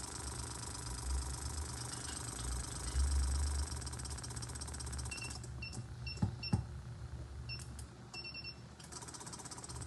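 Hyundai HB20 1.0 three-cylinder engine running with a steady low hum. About halfway through the engine sound drops away while a string of short electronic beeps sounds, the last one longer. Two sharp knocks come in the middle of the beeps, and the engine sound comes back near the end.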